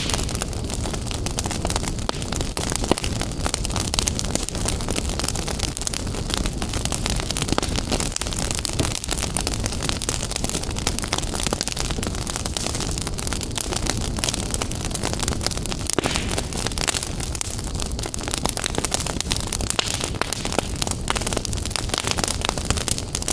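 Wood fire crackling in a fireplace: a dense, steady run of small sharp crackles and pops over a low rumble of flame.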